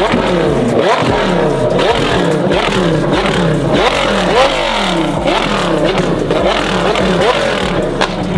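Performance car engine revved hard over and over, its pitch rising and falling in quick succession, with an exhaust pop near the end: the car is being revved to shoot flames from the exhaust.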